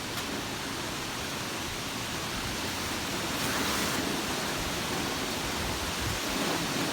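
Steady rain falling in a thunderstorm, an even hiss that swells a little about halfway through.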